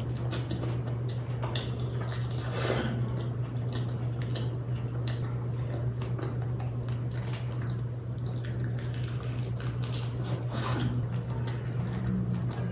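Close-miked chewing of kachori, with wet mouth clicks and squelches. A steady low hum runs underneath.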